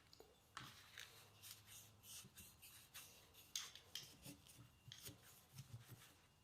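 Faint, irregular scraping and rubbing strokes of hand work on small engine parts, a quick stroke every half second or so.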